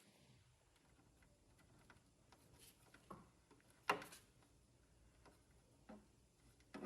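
A few scattered light clicks and taps over near silence, the sharpest about four seconds in.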